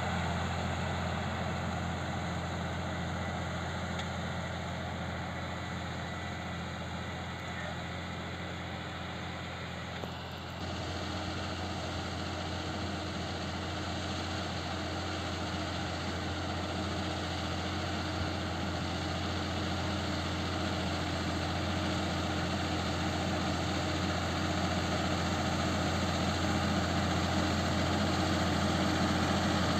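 Claas Arion 620 tractor engine running steadily, a low, even drone. About ten and a half seconds in the sound dips briefly and shifts slightly in tone, then runs on steadily.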